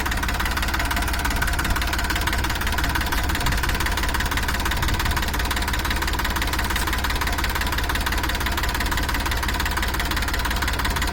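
Tractor diesel engine running steadily with a deep, even throb and no change in speed.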